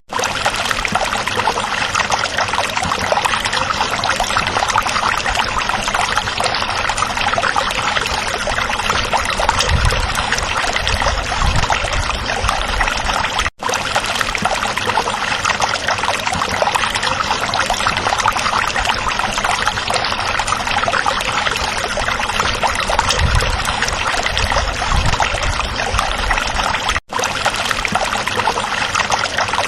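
A stream flowing and trickling in a steady rush of running water, which cuts out for an instant twice, about thirteen seconds apart.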